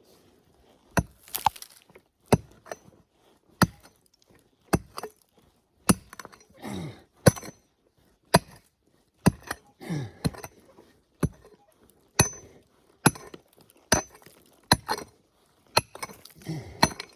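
Pick striking into clay ground, about one blow a second in a steady digging rhythm.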